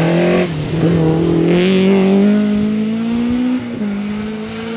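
Rally car engine under hard acceleration, its pitch climbing steadily and dropping at gear changes about half a second in and again near the end. The sound fades as the car pulls away.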